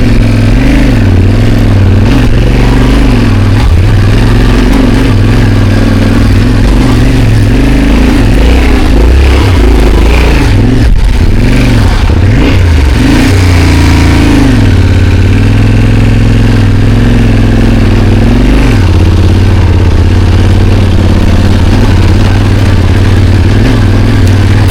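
Motorcycle engine running at low speed under load, its revs steady for long stretches and rising and falling several times in the middle.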